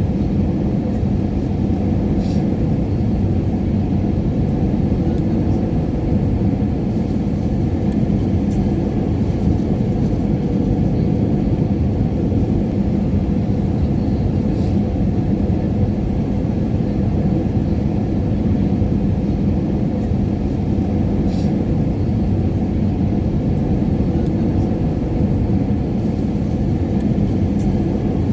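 Airliner cabin noise at cruise: a steady, even low rumble of engines and rushing air with a faint constant hum, broken only by two faint ticks.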